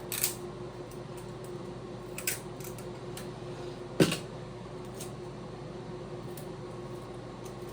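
A 90 CFM bathroom exhaust fan running with a steady hum, with a few light clicks and one sharper knock about four seconds in.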